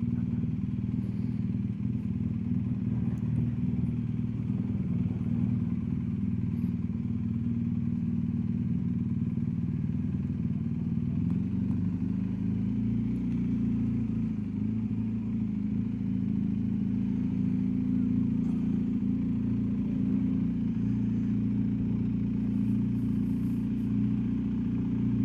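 BMW R1250GSA's boxer-twin engine running steadily at low revs while riding, heard from on board the bike. The engine note shifts slightly about halfway through.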